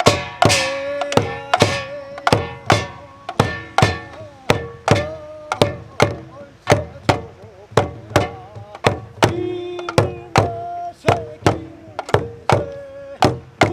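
Korean traditional folk music: percussion struck in a steady beat, about two to three hits a second, each ringing briefly, under a wavering melody line.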